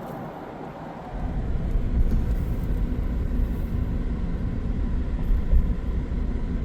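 Wind and road noise from a moving vehicle: a low, fluctuating rumble that jumps much louder about a second in and then holds.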